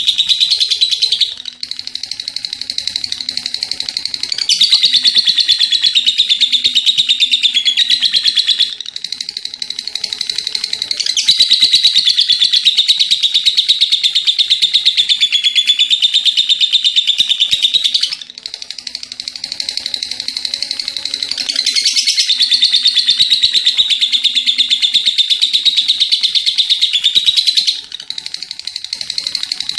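Lovebird in full 'ngekek' song: a long, unbroken, rapid high chattering trill. It swells louder and eases back in several long phrases.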